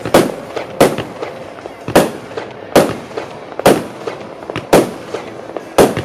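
Heron Element G compound fireworks cake firing: seven sharp bangs in a row, about one a second, each with a short echo, and lighter cracks between them.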